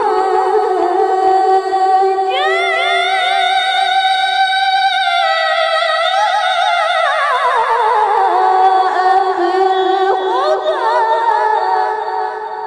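A woman reciting the Qur'an in melodic tilawah style, holding one long ornamented vowel with rapid trills. The pitch leaps up about two seconds in, slides down around the middle, lifts again near the end and then fades.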